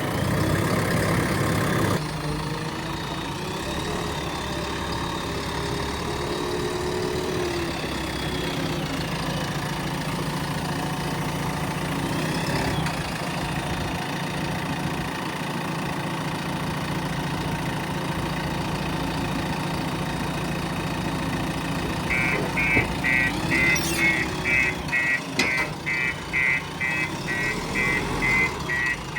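Diesel engine of a JCB 3DX Plus backhoe loader running steadily. In the last several seconds a reversing alarm beeps about three times a second.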